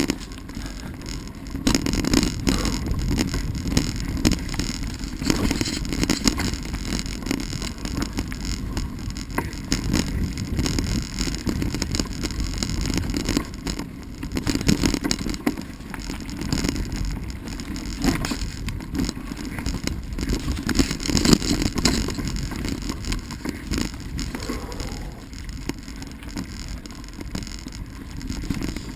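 Mountain bike rolling over a rough, rutted dirt trail: tyre noise with frequent rattles and knocks from the bike, and a low rumble of wind on the microphone.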